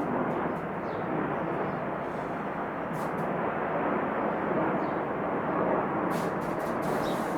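Airplane engine noise: a steady rushing rumble that swells slightly at the start, then holds.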